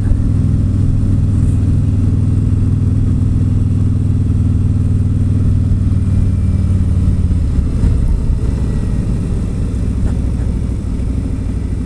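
Harley-Davidson Street Glide Special's Milwaukee-Eight 107 V-twin running at steady road speed, heard from the rider's seat. About seven seconds in the engine note drops and thins as the throttle eases off.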